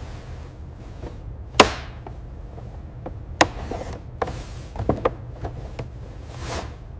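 A series of sharp knocks at irregular spacing over a low steady hum. The loudest comes about a second and a half in and rings briefly, and a tighter cluster follows around five seconds in.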